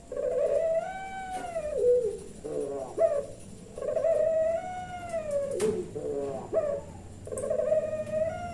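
Puter pelung, a Javanese fancy strain of collared dove, cooing. It gives three long drawn-out coos, each swelling up and sliding down, with a few quick short notes between them.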